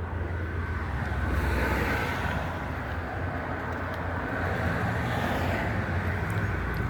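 Road traffic: vehicles passing, with a steady low rumble of engine and tyre noise that swells twice.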